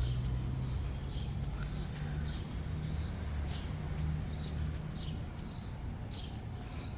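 A bird calling over and over, a short high chirp about once a second, over a steady low rumble of outdoor background noise.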